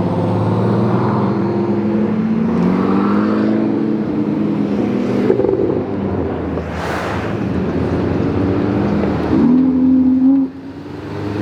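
High-performance car engines revving and accelerating as cars drive past, their pitch climbing several times. One car sweeps by loudly about seven seconds in. The engine sound drops sharply near the end, then rises again.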